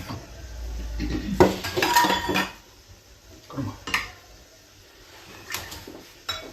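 Metal kitchen pots and utensils clinking and clattering: a burst of clatter about a second and a half in, then a few separate knocks.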